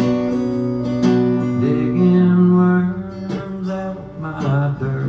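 Acoustic guitar strumming chords, with the last notes of a song played without singing.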